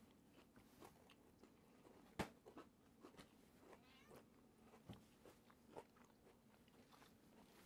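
Faint chewing of shortbread lemon squares with a crisp crust: scattered soft crunches and mouth clicks, the sharpest about two seconds in.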